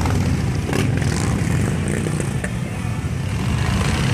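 Several Harley-Davidson V-twin motorcycle engines running together as the bikes ride past in a group, a steady low rumble.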